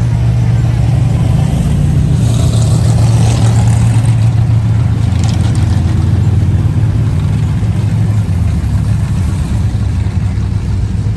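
A car engine running close by with a loud, steady low rumble, with some added higher-pitched noise for a couple of seconds early on.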